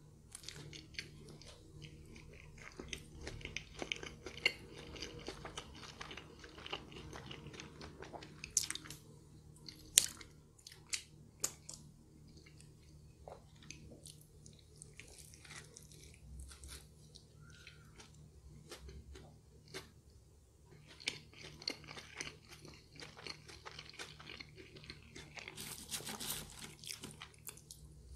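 Close-up chewing and biting of a Big Mac: soft wet mouth sounds with many sharp crackles and clicks, coming in bouts. Near the end, McDonald's French fries are chewed along with it.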